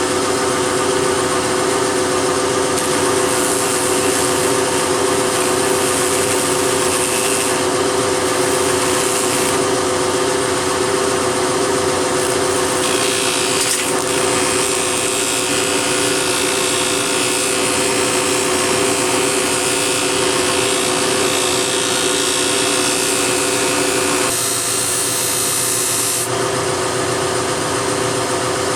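Scroll saw running steadily, its reciprocating blade cutting 3 mm brass plate: a constant hum with a harsh rasping saw noise over it.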